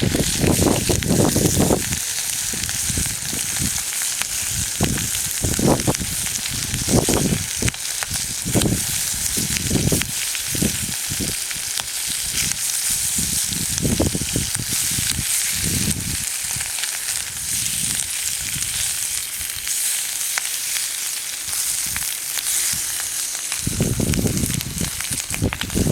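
Food frying in a pan, with a steady high sizzle throughout. Irregular low muffled thumps sound over it, heaviest at the start and again near the end.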